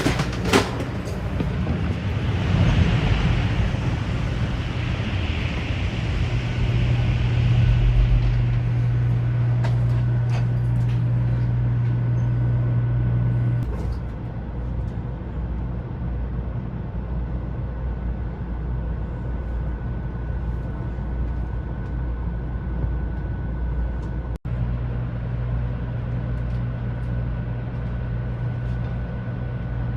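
A 500 Series Shinkansen train running: a steady rumble of running noise with a low hum. The hum weakens about halfway through and comes back strongly near the end.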